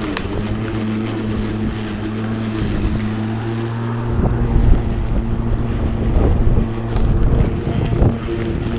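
Ozito PXC 36V cordless lawn mower's electric motor and blade running at a steady pitch while mowing, with wind rumbling on the microphone from about halfway.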